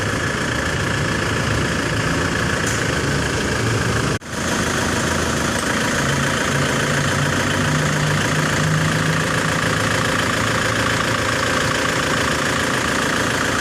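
Nissan Terrano's turbo engine idling steadily, with a sudden brief break about four seconds in.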